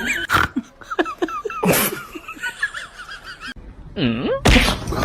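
Laughter in short wavering bursts, broken by a few sharp, breathy bursts of noise.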